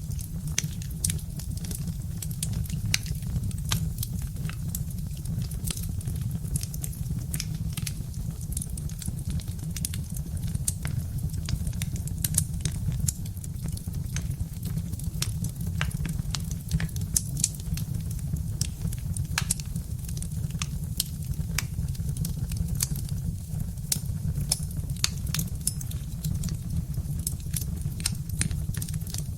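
Birch-wood fire crackling: frequent small sharp pops and snaps, several a second, over a steady low rumble.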